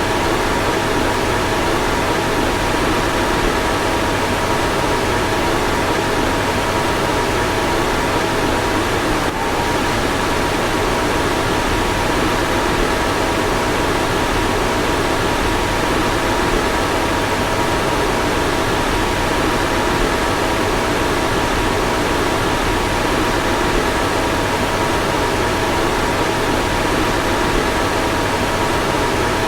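A car's fan running steadily: an even rush of air with a faint, constant two-note whine, unchanging throughout.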